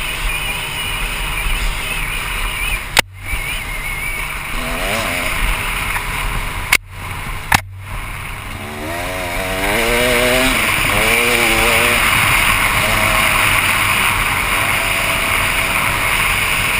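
KTM 300 EXC two-stroke dirt bike engine on the move, revving up and down repeatedly under a steady rushing hiss that grows louder about ten seconds in. Three sharp knocks come, one about three seconds in and two close together near seven seconds.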